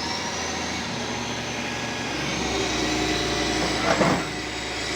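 A heavy machine's engine running steadily, with a thin high whine that rises and then levels off, and a short noisy burst about four seconds in.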